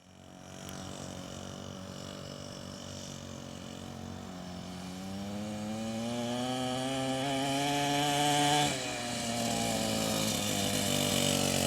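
SYXmoto 50cc two-stroke dirt bike engine running, its pitch climbing steadily under throttle from about five seconds in, then dropping suddenly near nine seconds before running on at a steadier pitch. The engine gets louder over the clip.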